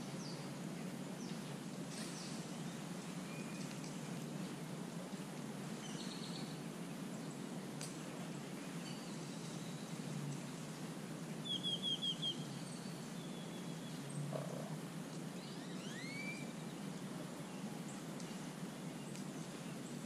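Small birds chirping and calling here and there, with a quick run of about five high chirps a little past the middle and a rising call later, over a steady low background noise.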